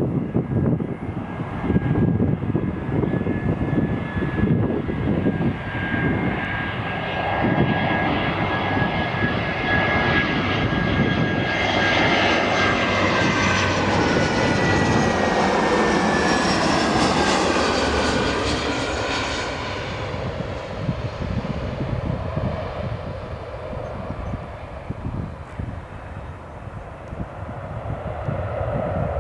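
Airliner's jet engines as it passes low on its landing approach: a steady whine that slowly falls in pitch, swelling with a sweeping, swirling quality about halfway through, then fading to a lower rumble.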